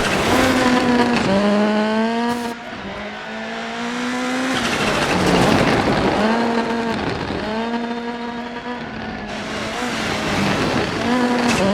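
Rally car engine pulling hard through the gears on a stage, the revs climbing and then dropping at each shift, several times over. About halfway through, the revs ease and a rush of tyre noise takes over briefly.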